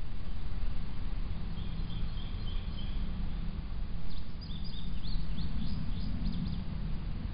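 Small birds chirping in two runs of short, high calls, the second a quick series of falling chirps, over a steady low rumble picked up by a trail camera's microphone.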